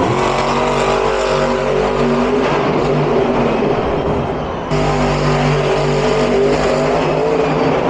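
Monster truck supercharged V8 engines running loud in a stadium arena, holding a steady growl with small shifts in pitch. The sound changes abruptly a little over halfway through.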